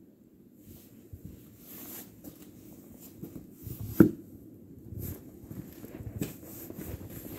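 Irregular crunching in snow with small scuffs and clicks, and one sharp knock about four seconds in.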